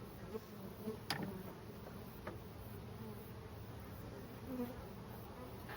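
Honeybee swarm buzzing steadily, with a sharp click about a second in and a fainter click about a second later.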